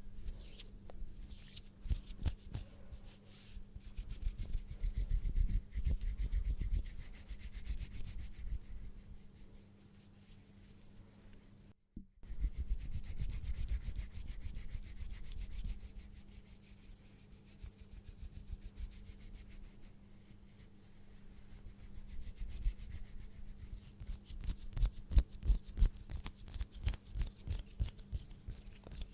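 ASMR hand sounds: hands rubbing close to the microphone in quick, rasping strokes, breaking off briefly about twelve seconds in.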